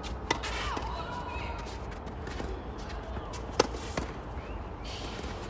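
Tennis ball struck twice by a racket, sharp pops about three seconds apart, the second louder, over a steady low background rumble.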